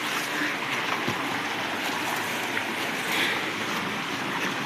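Steady rush of flowing water from a stream or waterfall, an even hiss with no breaks.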